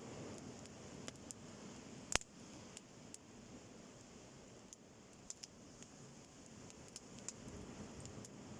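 Driftwood campfire crackling with scattered sharp pops, the loudest a little over two seconds in, over a faint steady wash of sea waves.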